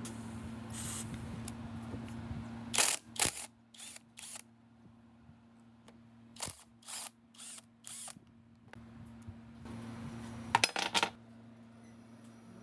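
Small metal parts and hand tools clinking during engine work: clusters of sharp clicks and clinks about three seconds in, again midway, and a quick run near the end, over a steady low hum.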